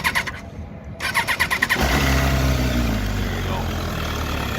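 2013 MV Agusta F4's inline-four engine being started: the electric starter cranks in a fast, even whir, pauses briefly, cranks again, and the engine catches a little under two seconds in and settles into a steady idle.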